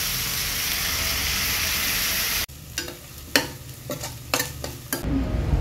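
Chicken drumsticks sizzling as they fry in oil in a nonstick pan. About two and a half seconds in it cuts to a spatula clicking and scraping against a pot as onions are stirred. A steady low rumble comes in near the end.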